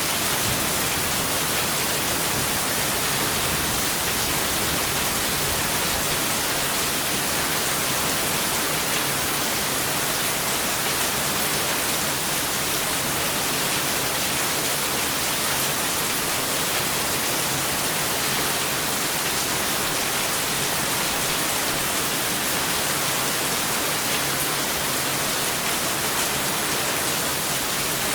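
Steady heavy rain, an even hiss with no thunder heard.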